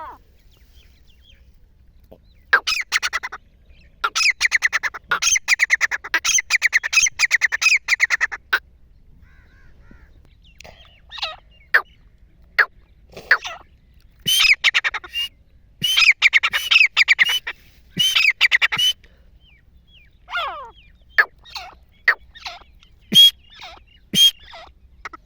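Tetar (francolin) calling in repeated bursts of rapid, harsh notes, some runs lasting several seconds, with short single calls between them.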